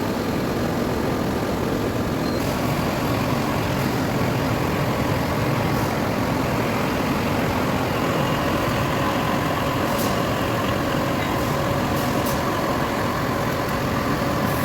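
Metal lathe running steadily, a constant mechanical noise with a faint steady whine, and a few light ticks near the end.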